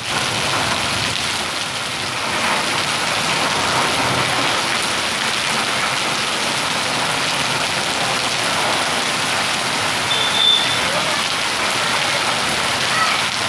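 Steady rain falling, with a stream of rainwater pouring off a roof and splashing onto wet paving.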